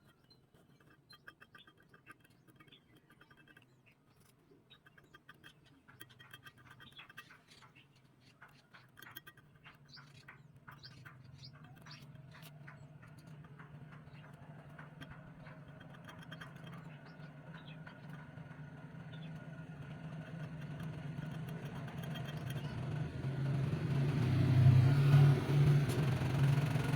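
A motor running with a low hum that grows steadily louder over the second half, with faint rapid clicking in the first few seconds.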